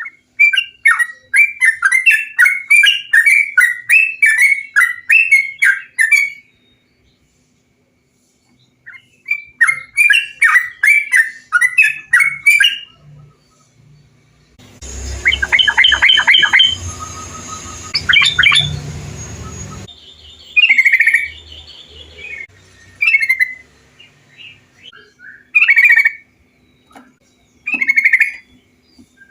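Trucukan (yellow-vented bulbul) song: runs of rapid, bubbly chattering notes lasting a few seconds each, then separate short calls towards the end. In the middle one passage plays over a background hiss and low hum, as a different recording of the same bird song.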